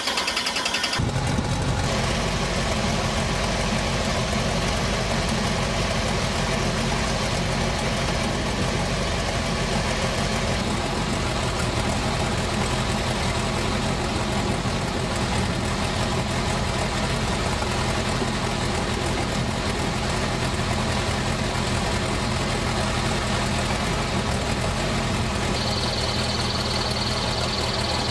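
Helicopter engine running steadily after start-up, a loud even drone with low engine tones; a steady high tone joins near the end.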